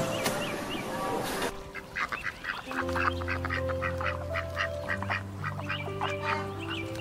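A flock of waterfowl on open water, mute swans with ducks among them, calling in many short, overlapping honks and quacks from about a second and a half in. Quiet background music with held chords plays underneath.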